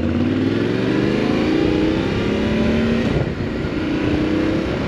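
Yamaha Ténéré 700's parallel-twin engine pulling away from a stop: the pitch rises steadily, drops briefly about three seconds in as it shifts up a gear, then climbs again under acceleration.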